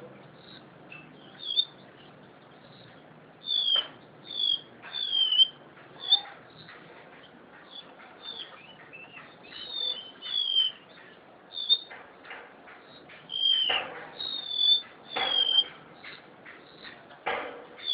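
Golden-bellied gerygone (remetuk laut) singing: a long run of short, high, thin whistled notes, many sliding down in pitch, delivered in quick irregular bursts.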